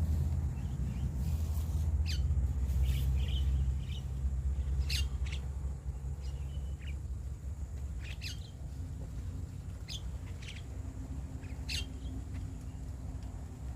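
Starlings calling: short, sharp chirps and squawks at irregular intervals, over a low steady rumble that eases after about four seconds.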